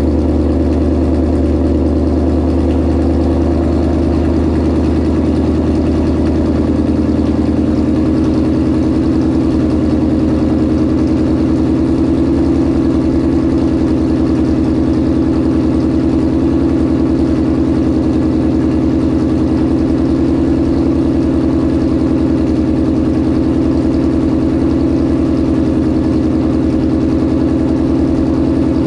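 Supercharged 2018 Ford Mustang GT's 5.0-litre V8 idling steadily after a cold start.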